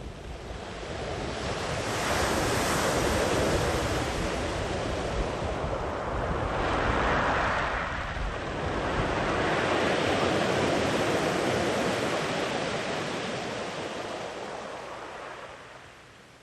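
Sea waves breaking and washing up the beach: the surf swells within the first couple of seconds, surges again about halfway through, and fades away near the end.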